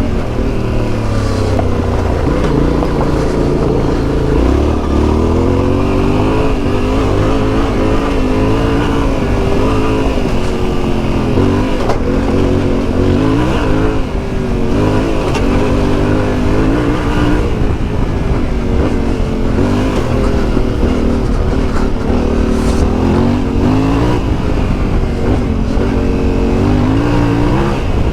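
Motorcycle engine running under load on the move, its revs rising and falling again and again with throttle and gear changes, with a brief drop in loudness about halfway through.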